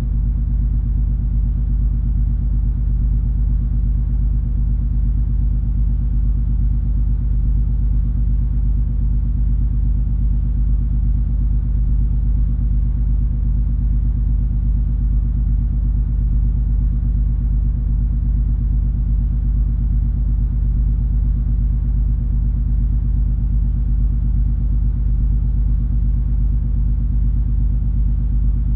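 Steady low rumble of the cruise ferry MS Color Magic's engines and hull under way, a constant deep hum with no change in pitch or level.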